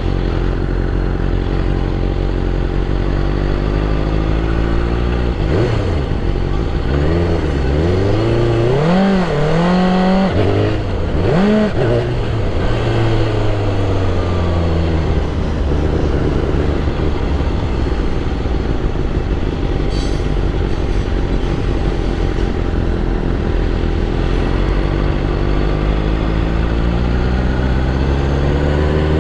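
BMW S1000RR inline-four superbike engine running at a steady drone. About five seconds in it revs sharply up and down several times, then settles back to a steady note, and it rises again right at the end.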